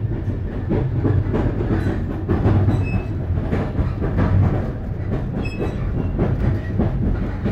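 A passenger train running, heard from inside the carriage: a steady low rumble of the wheels on the rails with frequent irregular clicks and rattles.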